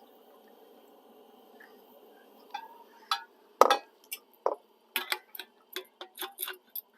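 A run of sharp, irregular clinks and knocks as a measuring cup and canteen are handled to measure out a cup of cold water, starting about two and a half seconds in.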